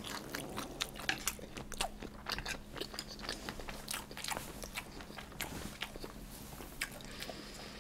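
A person chewing a mouthful of food close to the microphone: irregular small mouth clicks through the whole stretch, over a faint steady hum.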